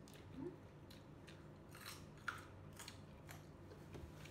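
Faint crunching of crisp raw vegetables such as carrot sticks and bell pepper being bitten and chewed: a string of short, sharp crunches at an uneven pace.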